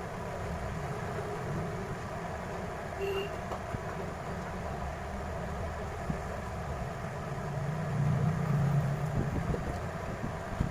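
Steady low background rumble, growing louder for a second or two about eight seconds in.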